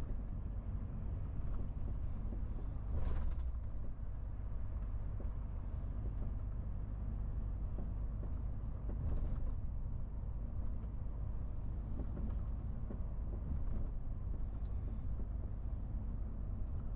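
MAN TGX 18.470 truck's straight-six diesel running steadily under way, a low even drone. Two brief hisses cut through it, about three seconds in and again around nine seconds.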